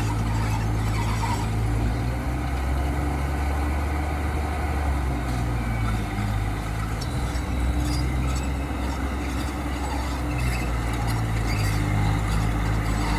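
Heavy earthmoving machine's diesel engine running, its pitch shifting as it works, with scattered squeaks and knocks over it.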